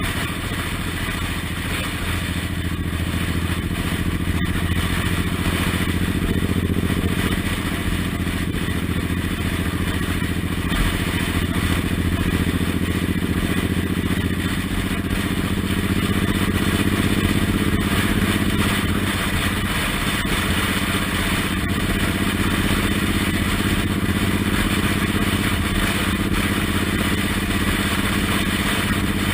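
Suzuki Intruder M1800R's V-twin engine running steadily under way, its note drifting slightly up and down with speed, over steady wind and road noise.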